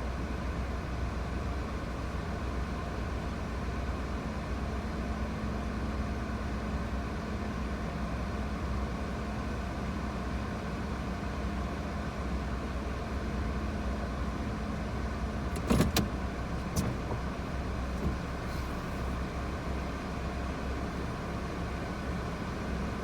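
Nissan Moco kei car's engine running steadily with a low hum. A quick cluster of sharp clicks comes about two-thirds of the way through, followed by a couple of single clicks.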